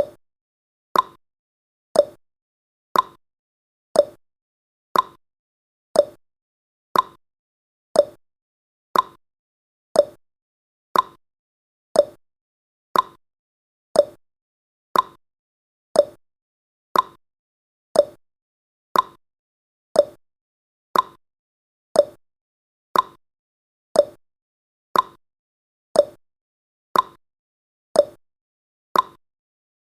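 Countdown timer's ticking sound effect: one short, sharp tick every second, evenly spaced, with silence between.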